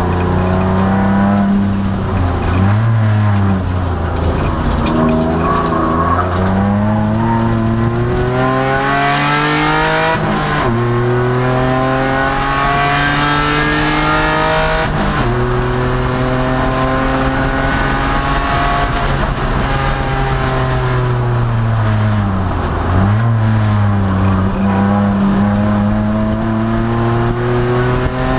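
2002 Nissan Maxima race car's 3.5-litre V6 under hard acceleration, its pitch climbing through the revs and dropping sharply at each upshift, about ten and fifteen seconds in. It then winds down for several seconds as the car slows and climbs again near the end as it accelerates out.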